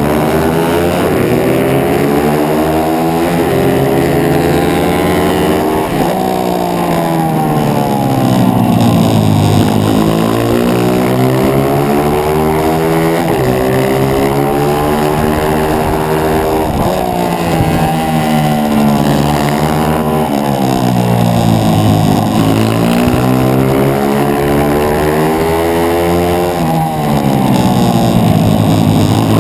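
140cc pitbike's single-cylinder four-stroke engine at racing revs, its pitch climbing and dropping again and again as the bike accelerates, changes gear and backs off into corners.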